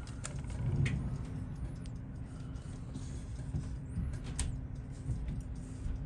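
Scattered small clicks and taps of watchmaker's tools on the parts of a watch movement being taken apart, the sharpest about four seconds in, over a steady low hum.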